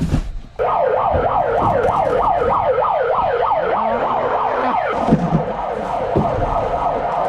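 Departure siren at an Amazon delivery station, starting about half a second in as a loud, fast-repeating rising wail, several sweeps a second, then settling into a steadier wail; it signals the delivery vans to start rolling out.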